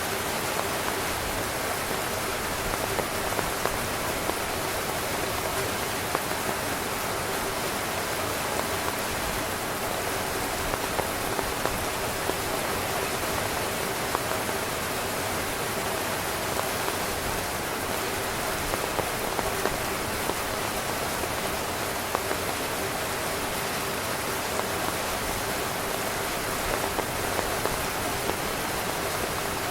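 Steady rain drumming on a tent's fabric, a dense, even patter with many individual drops ticking on top.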